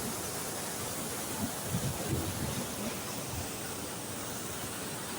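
Steady rush of water, floodwater released to the sea.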